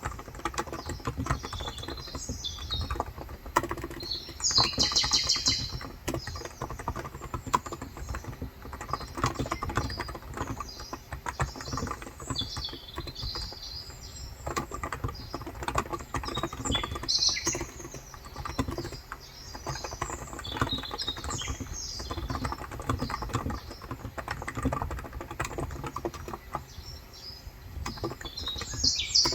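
Continuous typing on a Cox Endeavour electro-capacitive (contactless) 35 g tenkeyless keyboard, a steady run of keystrokes. Birds chirp in the background throughout, most strongly about five seconds in and again near the end.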